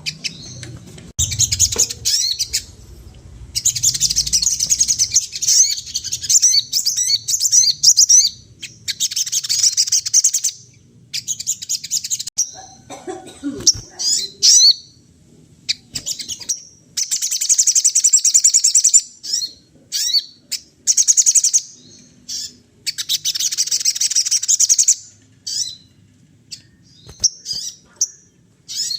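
Sogon songbird singing busily: long, fast phrases of high twittering chirps, each a few seconds long and broken by short pauses.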